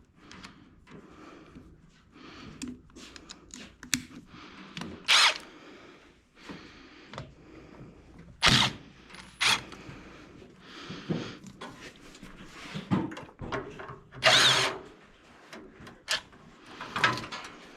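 Cordless power tool spinning a socket on bolts in several short bursts, one with a rising motor whine. Clicks and knocks of tools and metal parts come in between.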